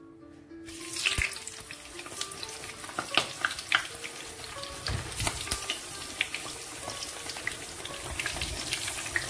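Vegetable slices frying in hot oil in a pan: a steady sizzle dotted with sharp spits and crackles, with a few dull knocks. The sizzle starts about a second in.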